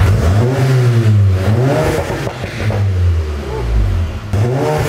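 VW Golf MK7 GTI's turbocharged four-cylinder engine revved several times through an Armytrix valvetronic cat-back exhaust, rising and falling in pitch with each blip. The exhaust valves are open, the loudest mode.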